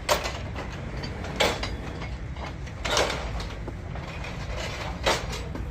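Four sharp metallic clanks, roughly a second and a half apart, from work on a bulldozer track chain, over a steady low machine hum.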